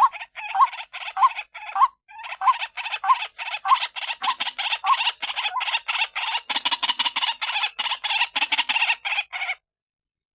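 White-breasted waterhen calling: harsh repeated notes, about two a second at first, then after a short pause a faster, unbroken run of calls that stops shortly before the end.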